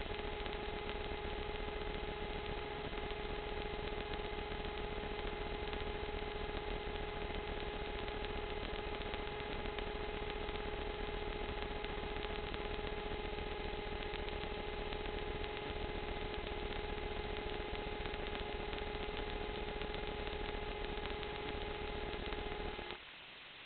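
Small camera drone's motors and propellers running in a steady hover, an even hum with a held whine over hiss; it cuts off abruptly just before the end.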